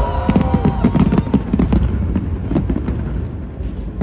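Fireworks bursting: a rapid, irregular string of sharp bangs and crackles over a constant low rumble, with a whistling tone that cuts off about half a second in.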